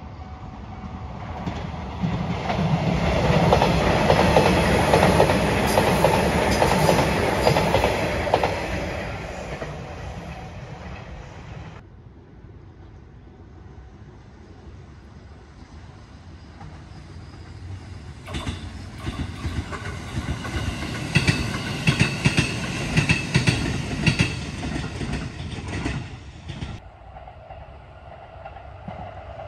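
Two trains passing on the Sanyo Electric Railway line. The first swells to its loudest a few seconds in, then breaks off abruptly. A second one rises later with a quick run of wheel clacks over the rail joints, and it too cuts off shortly before the end.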